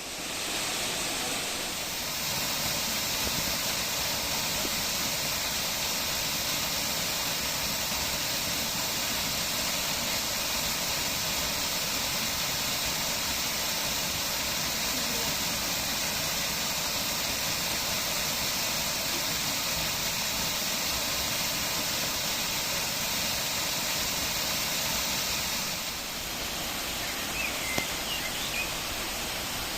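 Steady rushing of water falling at the Düden waterfall, a little quieter near the end, with a few faint high chirps near the end.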